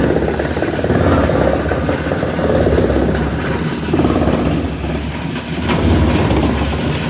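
A large engine running steadily, its level rising and falling gently.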